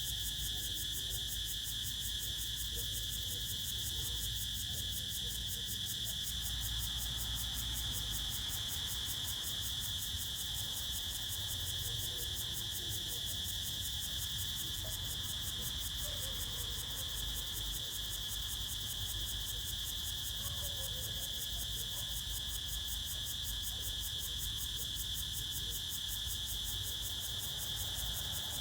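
Crickets trilling in a continuous chorus, a steady high-pitched tone that never breaks. A low rumble of wind runs underneath, with a few faint chirps about halfway through.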